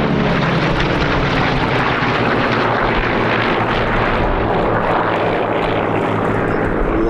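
Pratt & Whitney R-2800 radial engines and propellers of three Corsair fighters flying past in formation: a loud, steady engine roar whose pitch slides down slightly just at the start and then holds.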